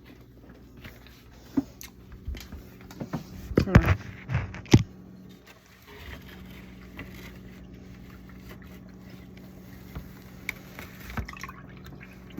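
Knocks and clatter of things being handled, loudest about four to five seconds in, then a steady low hum with a few faint clicks.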